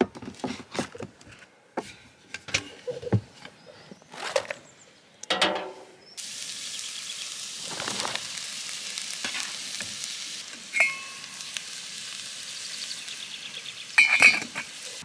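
Scattered clicks and knocks of handling, then, from about six seconds in, steady sizzling of red onion and mushrooms frying in a wok on a portable gas camping stove. Near the end comes a metallic clank with a short ring as a steel saucepan lid is lifted.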